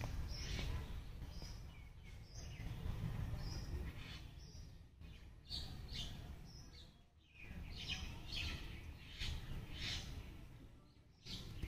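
Birds chirping in many short, high calls, over a low rumble.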